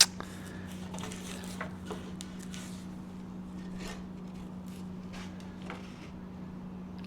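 A sharp knock, then scattered light clicks and rubbing as wooden stakes are handled and fitted together, over a steady low hum.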